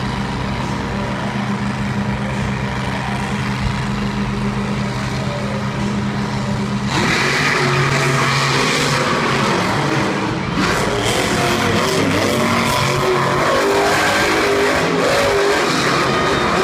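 Two monster trucks' supercharged V8 engines idling with a steady drone at the starting line, then about seven seconds in they launch together at full throttle and race, engines revving hard and shifting in pitch.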